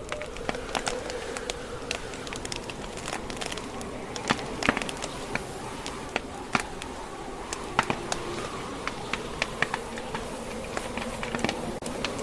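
Burning wood fire crackling, with irregular sharp pops and snaps over a steady low hum.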